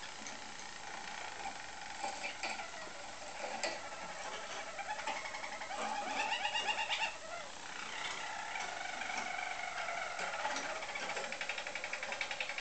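Roller canaries singing: continuous low, rolling trills of rapidly repeated notes, with several strands at once and a louder rapid trill about halfway through.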